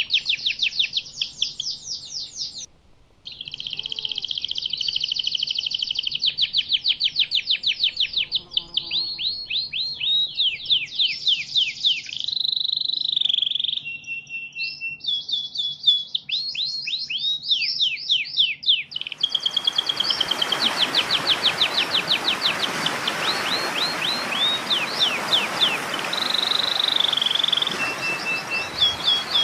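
Songbird masteran recording: a high-pitched bird song of fast repeated trills and quick down-sweeping notes, with a brief break about three seconds in. About two-thirds of the way through, a steady hiss comes in under the song.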